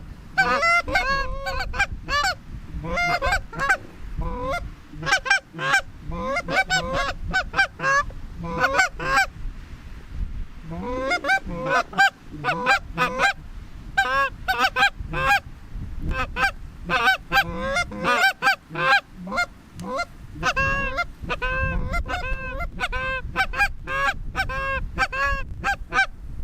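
Canada geese honking in rapid, overlapping calls, with a short lull about ten seconds in.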